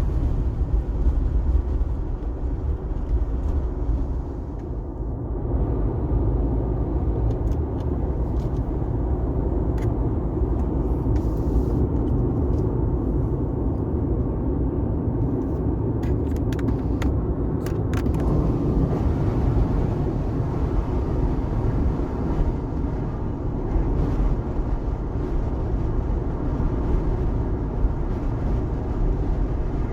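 A car driving on a wet highway: steady low road rumble and the hiss of tyres on wet pavement, with a few brief faint clicks in the middle.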